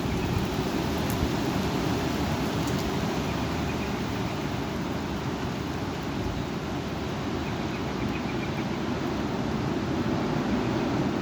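Severe thunderstorm wind with rain, a steady rushing noise, with a couple of faint clicks in the first few seconds.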